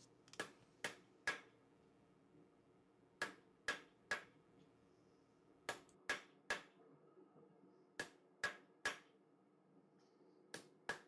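Hand hammer striking hot 4140 steel bar stock on an anvil, forging a hexagon onto a chisel's striking end: sharp metallic blows in groups of three, about two a second, with short pauses between groups as the bar is turned to the next face. A faint steady hum runs underneath.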